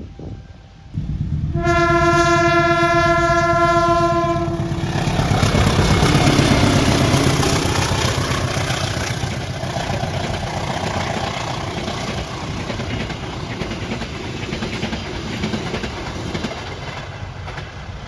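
A train sounds one long horn blast of about three seconds, then passes close by with a loud rumble and wheels clattering on the rails, which is loudest a few seconds after the horn stops and slowly fades.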